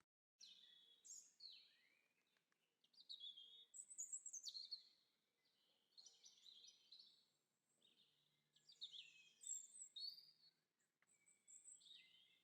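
Songbirds singing, faint: a run of quick high chirps and warbling phrases, overlapping and near-continuous, starting about half a second in after a moment of dead silence.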